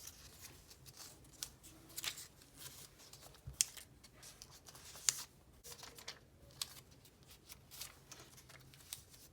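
Paper strips being folded and creased over one another, a run of crisp paper rustles and sharp crinkling snaps at irregular intervals.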